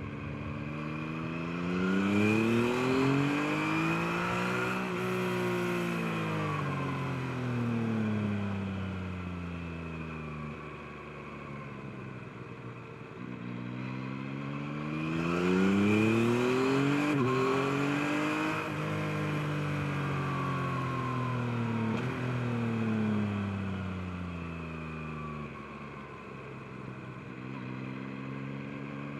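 Yamaha MT-09's inline three-cylinder engine heard from the bike, pulling up in revs and then easing off twice in long smooth swells, and climbing again near the end.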